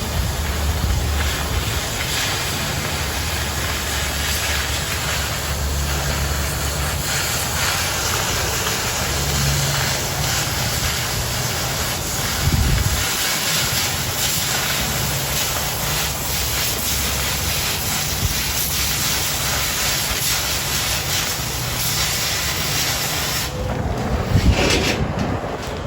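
Oxy-fuel cutting torch running on steel plate: a steady hiss of the cutting jet as it burns through 1/4 inch plate, changing in tone near the end.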